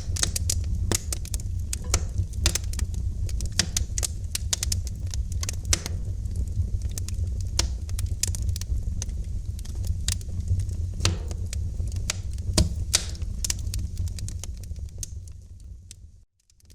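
Wood fire crackling in a fireplace: dense, irregular sharp pops and snaps over a low steady rumble of flames. Near the end it fades out to a brief silence.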